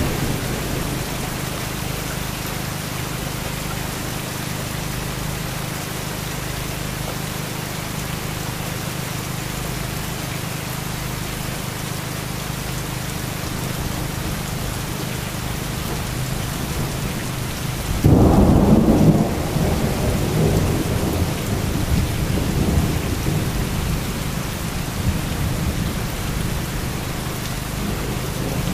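Heavy rain falling steadily. About two-thirds of the way through, thunder breaks suddenly and rumbles on for several seconds, and the tail of an earlier rumble fades away at the start.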